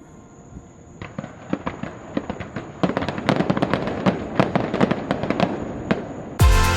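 Fireworks going off in rapid crackling pops that build up and grow denser about three seconds in. Loud electronic music with a heavy beat cuts in suddenly near the end.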